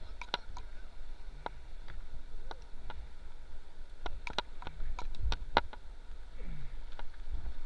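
Paddling in a whitewater boat: scattered sharp knocks and taps, irregular and a dozen or more, over a low steady rumble.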